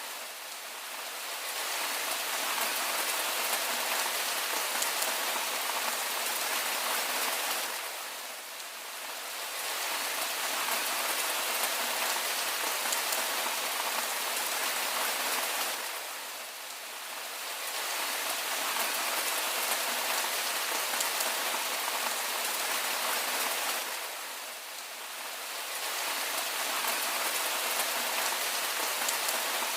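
Steady rain hiss, with the patter of drops on a surface, softening briefly about every eight seconds.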